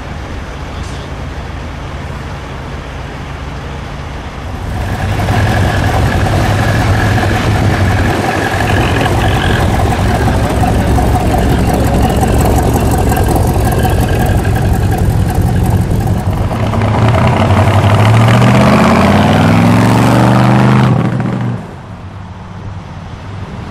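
Corvette concept car's V8 engine running: a steady idle, then louder from about five seconds in as the car pulls away, with the revs climbing near the end before the sound drops off suddenly.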